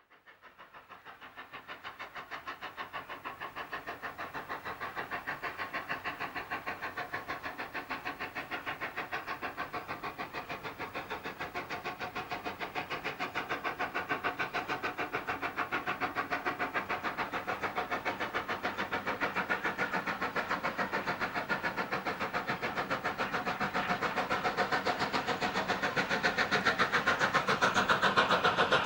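Steam locomotive #90, a 2-10-0 Decapod, working a train: a fast, even run of exhaust beats that grows steadily louder as the engine approaches.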